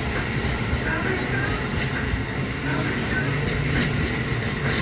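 Amtrak Northeast Regional train moving along the station track: a steady rumble of wheels on rail.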